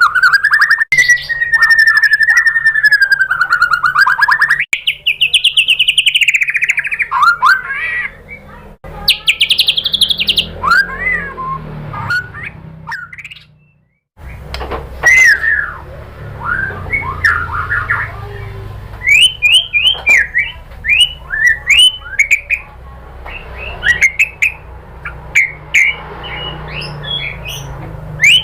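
White-rumped shama (murai batu) singing: long, wavering whistled phrases at first, then varied song notes, a short silent break about halfway, then a fast series of sharp chirps and calls over a low hum.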